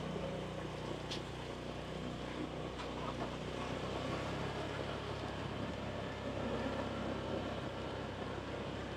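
An engine running steadily at an even low hum, with no change in speed.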